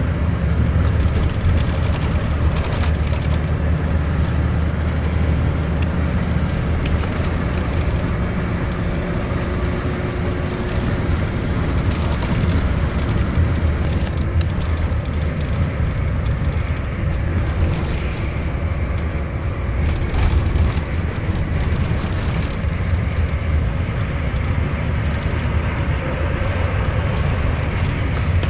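Steady drone of a Scania K410iB double-decker bus's engine with tyre and road noise, heard from inside the cabin while the bus drives along.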